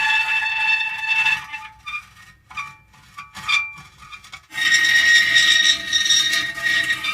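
Metal creaking in long, drawn-out pitched squeals. About a second and a half in, the squeals break off into a few short squeaks, and the long squeal starts again about four and a half seconds in.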